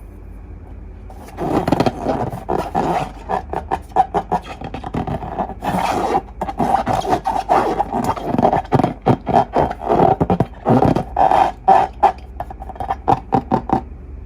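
Slime being squeezed and worked by hand close to the microphone: a dense, irregular run of rapid clicks and pops that starts about a second in.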